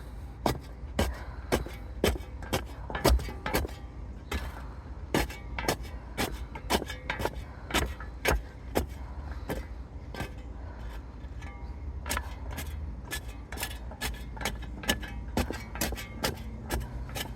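Shovel digging in dry, stony garden soil: repeated sharp scrapes and clinks, irregular, one to three a second, as the blade strikes earth and rocks.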